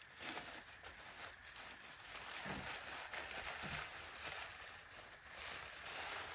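Nylon tarp awning rustling as it is handled and set up: a rough hiss that swells and fades, with two soft low thumps about two and a half and nearly four seconds in.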